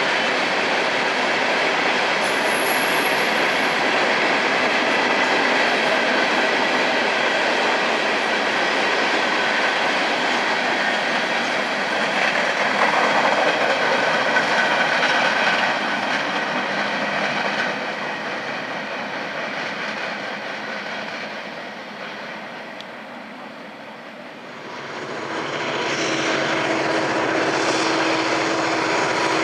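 Coal hopper cars of a freight train rolling past with steady wheel-on-rail noise and thin high wheel squeal, fading away over the last third. Near the end the steady hum of approaching diesel locomotives takes over.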